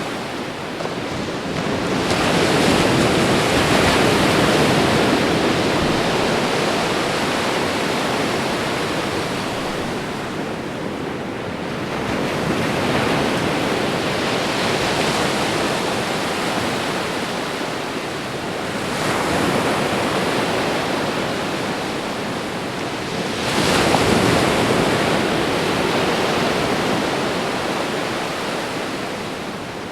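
Ocean surf: waves breaking and washing in a continuous rush that swells with each new wave, about four times, the loudest surge about 24 seconds in.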